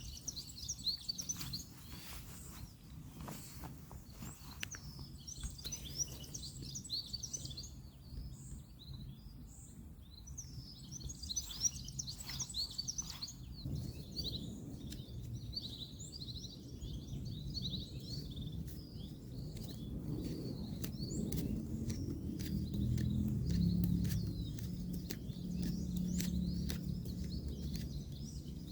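Small birds chirping and twittering throughout, over a low rumble of distant road traffic that swells in the second half. Scattered light clicks and taps are heard, mostly in the first half.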